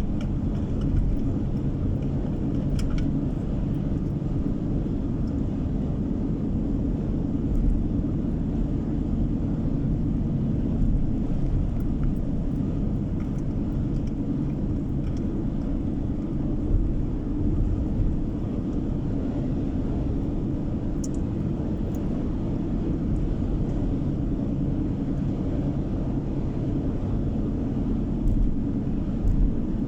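Car driving, heard from inside the cabin: a steady rumble of road and engine noise, with a few faint clicks.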